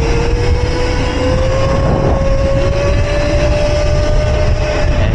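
Electric mini bike's motor whining, its pitch rising slowly and steadily as the bike gathers speed, under heavy wind rumble on the microphone.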